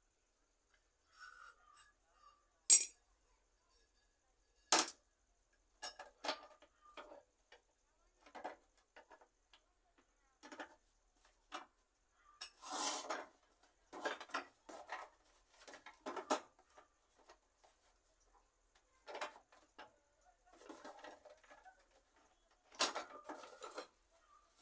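Scattered metallic clinks, clicks and knocks of gas-stove parts and tools being handled during a repair. The sharpest clicks come about three and five seconds in, with a busier cluster of knocks near the end.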